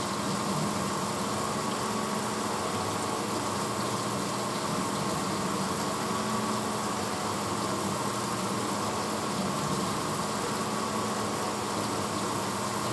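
1986 Hotpoint Potwasher dishwasher running mid-cycle: a steady motor hum over an even rush of noise from inside the machine.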